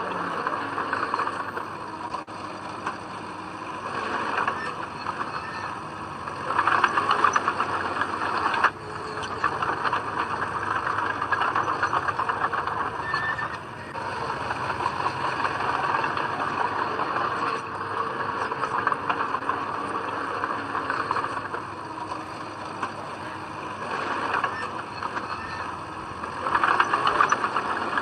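Heavy earthmoving machinery running steadily with a rattling, clattering texture, growing louder for a couple of seconds about a quarter of the way in and again near the end.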